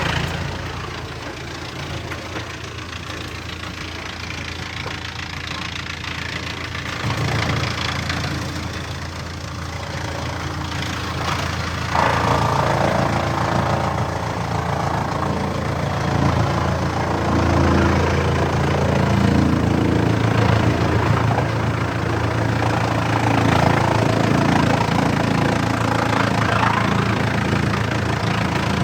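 Wood chipper's engine running steadily, with a louder, noisier stretch about seven seconds in and a jump to a louder, harsher sound about twelve seconds in that carries on.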